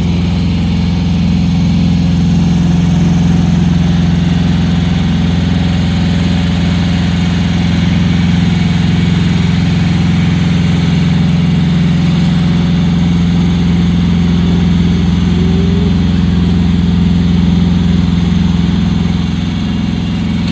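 Tractor engine running steadily at an even speed while towing a dead truck, a constant low drone with no revving.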